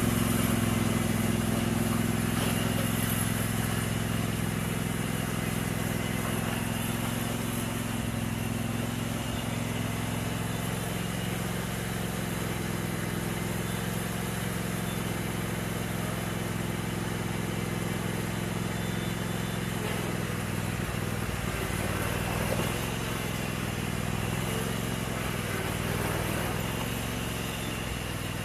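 A riding lawn mower's 22-horsepower engine running steadily, its pitch shifting a little about two-thirds of the way through.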